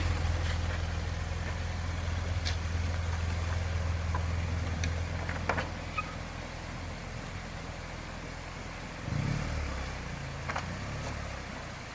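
Motorcycle engine idling with a steady low hum, its note shifting and wavering about nine seconds in, with a few sharp clicks over it.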